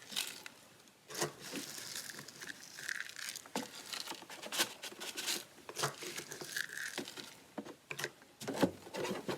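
Bird seed being scooped and poured into a plastic milk carton: an irregular rattle and rustle of seed and handling, with scattered sharper clicks.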